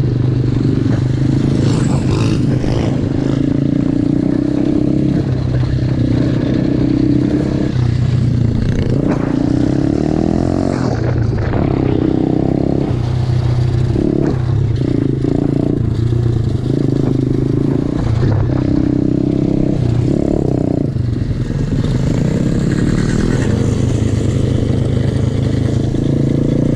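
Small single-cylinder four-stroke pit bike engine running under load while being ridden, its note stepping up and down over and over with throttle and gear changes. Rattles and knocks from the bike over rough ground come through throughout.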